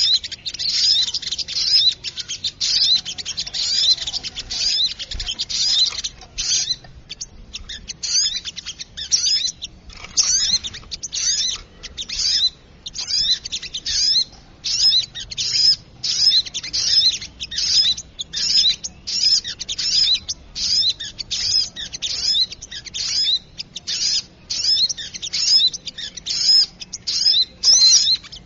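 Bird-lure recording of sogok ontong (little spiderhunter) calls: busy, noisy runs of sharp, high-pitched chirps repeated several times a second, in bursts broken by short gaps. It is a lure meant to draw small birds in.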